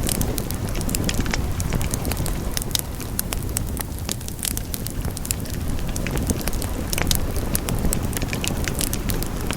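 Wood fire burning in a fireplace: a steady low rush of flames with many sharp crackles and pops scattered throughout.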